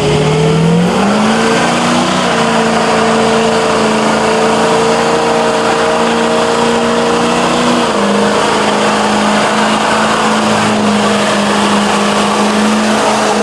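Car engine held at high revs during a burnout, its pitch climbing over the first second or two, then holding steady with a slight dip about eight seconds in, over a steady hiss from the spinning tyres.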